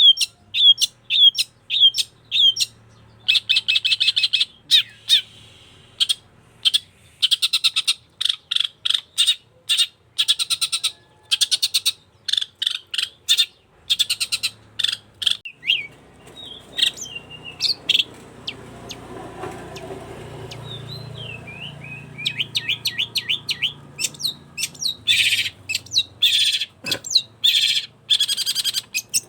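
Long-tailed shrike (cendet) singing hard: fast runs of sharp, chattering high notes repeated in quick series with brief pauses. A low rumble of background noise rises under the song about halfway through.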